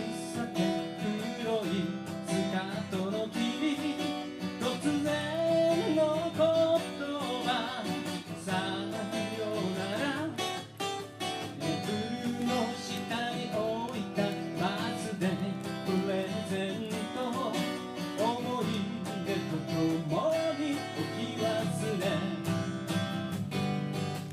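Live acoustic folk music: strummed acoustic guitar chords carrying an instrumental passage of the song, with a melody line sliding over them.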